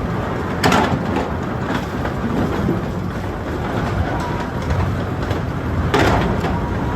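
Sawmill log-handling machinery running, a dense mechanical clatter and rumble, with two louder swells about a second in and near the end.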